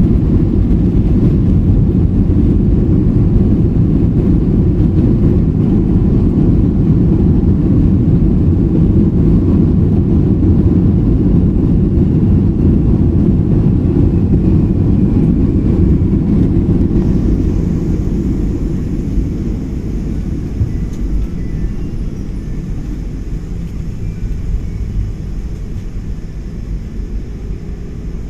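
Trigana Air passenger plane landing, a loud low rumble that eases off about two-thirds of the way through as the aircraft slows on the runway.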